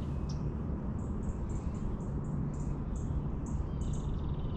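A small bird chirping: a run of short, high chirps about three a second, with a brief buzzing trill near the end, over a steady low outdoor rumble.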